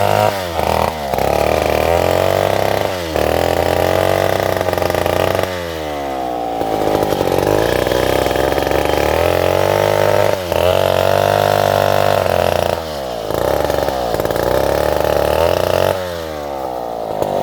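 Chainsaw cutting salam wood, its engine dipping in pitch as the chain bogs in the cut and revving back up, again and again.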